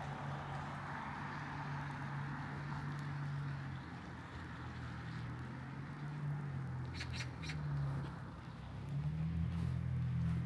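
Steady light rain with a low hum underneath, and a small bird giving three quick, short high calls about seven seconds in.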